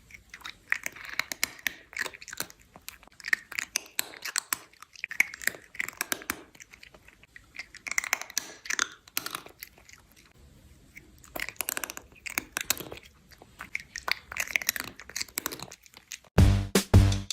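An animal chewing crunchy food: quick, irregular crunches in bursts of a second or two with short pauses between. About a second before the end, music with a heavy beat comes in.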